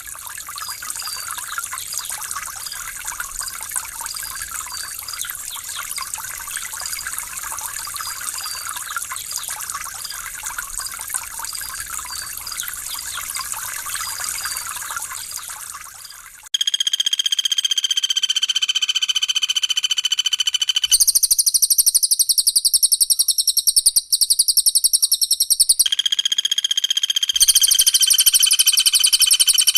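Trickling water with faint chirping over it, then, about halfway through, an abrupt switch to loud recorded bird song: clear held whistles mixed with very rapid, high rattling note series, changing pattern every few seconds.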